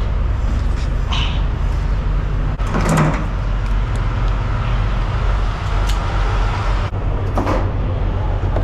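Semi truck's diesel engine idling with a steady low drone, with a few short knocks and clatters about a second in, around three seconds in and near the end.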